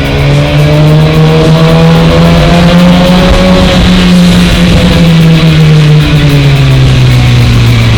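Racing engine running at high revs as it goes past, its note rising slowly and then falling away over the last few seconds, with music underneath.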